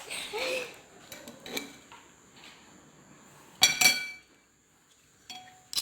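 Cutlery clinking against a plate while eating: a few light clicks and one sharp, ringing clink about three and a half seconds in, then another short click near the end.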